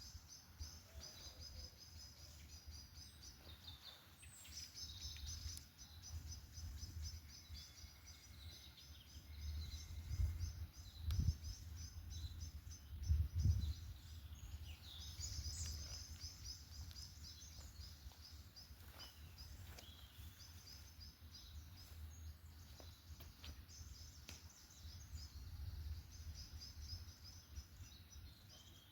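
Forest birds singing in rapid, high repeated trills, over a low rumble that swells a few times near the middle.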